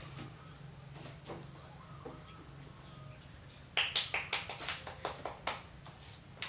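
A quick run of about ten sharp clicks or crunches, a little past halfway through, over a steady low hum.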